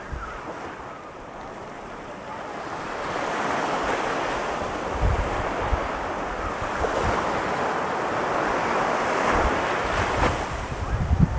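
Ocean surf breaking and washing up a sand beach: a steady rushing hiss that swells a few seconds in. Wind buffets the microphone in low thumps now and then, heaviest near the end.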